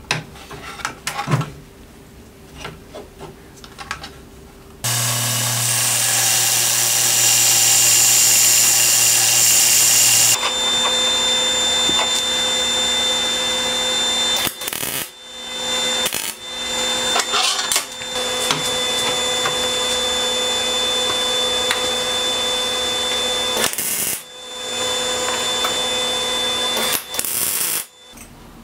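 A few light clicks of steel parts being handled, then MIG welding on steel square tubing from about five seconds in: a loud, steady crackling arc with a thin high tone. It runs in several welds broken by short pauses, the last cutting off just before the end.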